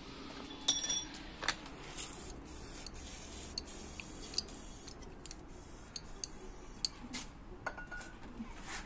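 Scattered light metallic clicks and taps from metal parts being handled, with a short ringing ping about a second in.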